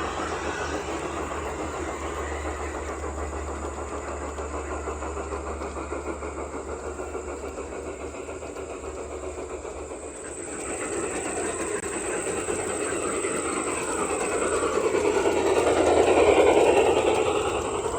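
Garden-scale model train running along its track, the wheels rolling and clicking over the rails. It grows louder from about halfway through, passes close by about three quarters of the way in, then fades.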